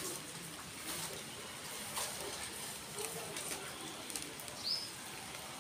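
Outdoor ambience with scattered light taps and a single short bird chirp near the end.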